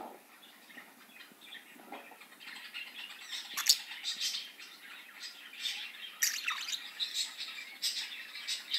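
Budgerigars chattering and chirping in quick, sharp calls. They are sparse at first and get busier after about two seconds.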